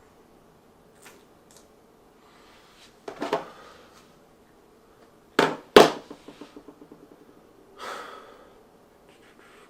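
Two heavy thuds about half a second apart, the second the loudest, followed by a quick rattle that fades out over a second or so, with breathy sounds before and after, in a small room.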